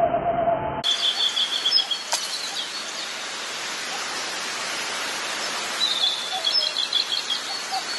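Wild birds chirping over a steady outdoor hiss, with a short run of high chirps about a second in and another around six seconds in. For the first moment a muffled held tone sounds, then cuts off abruptly.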